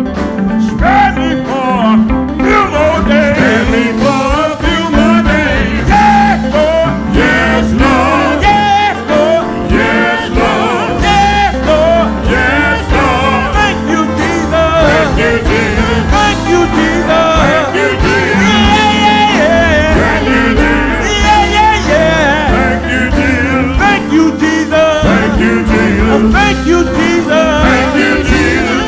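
Gospel song performed live: a vocalist singing with wavering, drawn-out notes over a band with bass and drums.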